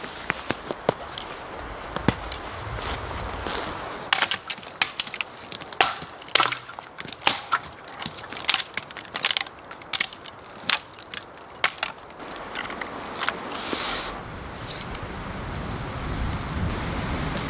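Dry sticks and leaf litter cracking and crunching in irregular snaps, many in quick succession through the middle, with wind rumbling on the microphone toward the end.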